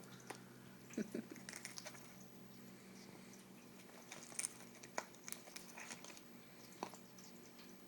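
Eclectus parrot's beak pecking and picking at a whole egg's shell: a scatter of faint, irregular clicks and taps.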